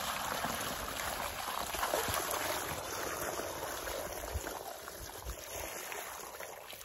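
A bucket of water being poured steadily into a post hole onto dry concrete mix, tapering off near the end.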